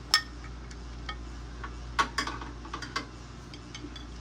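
Scattered sharp clicks and light knocks from handling a new microwave and its fittings, the loudest just after the start and about two seconds in, over a low steady room hum.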